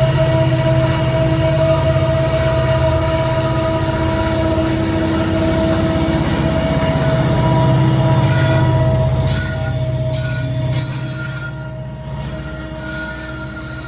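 Slow freight train passing: a steady diesel locomotive drone with several steady whining tones, then short high-pitched wheel squeals between about eight and eleven seconds in as the sound fades away.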